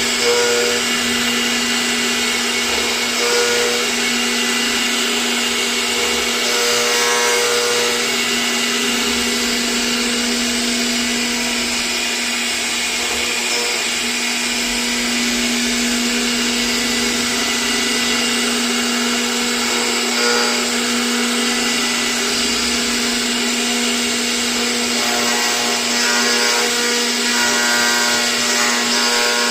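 CNC router spindle running steadily while cutting: a constant hum under a dense, harsh cutting noise.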